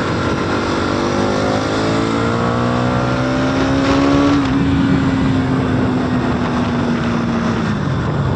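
Motorcycle engine accelerating, its pitch climbing for about four seconds, then holding a steady high note before dropping off near the end, over a steady rushing noise.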